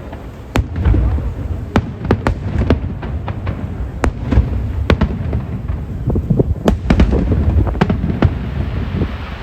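Aerial fireworks going off in a rapid, irregular volley of sharp bangs and cracks over a continuous low rumble of further bursts.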